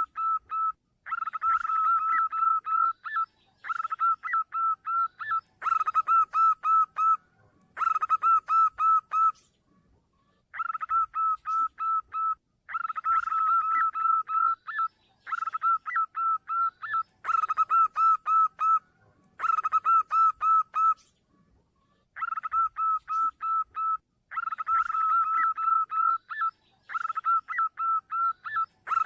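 Zebra dove (perkutut) cooing: phrases of rapid, pulsed notes on a steady pitch, each about two seconds long, repeated almost back to back with a couple of short pauses. The calls are played as a lure to draw perkutut in.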